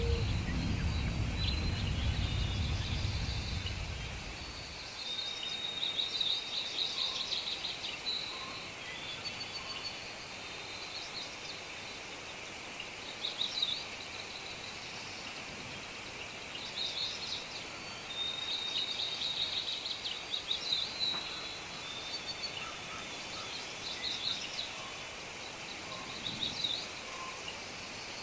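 Songbirds chirping in short trills that repeat every second or two over a steady background hiss. A low rumble stops about four seconds in.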